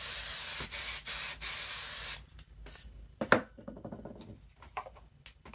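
Aerosol hairspray can spraying: a steady hiss for about two and a half seconds with a couple of brief breaks, then stopping. Fainter rubbing and handling sounds follow, with one sharp click.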